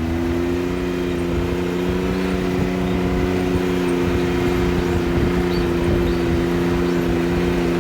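Vehicle engine running at a steady speed, its pitch unchanging, over wind and road noise.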